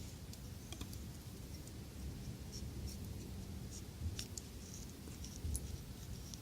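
Faint, irregular ticks and crackles, typical of lump charcoal catching in a small fire pit, over a low rumble.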